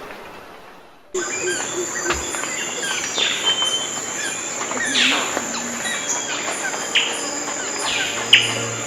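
Steady high insect drone with birds calling over it: several sharp notes that sweep down in pitch, the loudest near the end. The sound starts abruptly about a second in.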